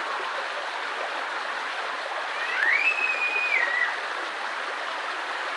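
Steady rushing of a mountain stream flowing over rocks. About halfway a single high call, likely a voice in the distance, rises, holds and drops away.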